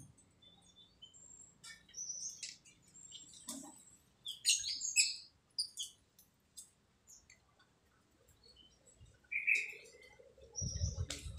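Short, scattered chirps and squawks from a pet jalak (starling), busiest around the middle, with another call near the end. A low rumble starts just before the end.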